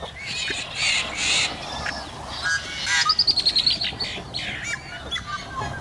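Duckling peeping: a string of short, high-pitched peeps, with a fast run of about ten notes around the middle.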